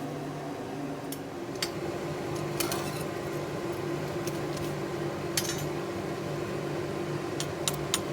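Pliers clicking and clinking on a small steel fire steel being bent into shape, a handful of sharp separate clicks over a steady machine hum.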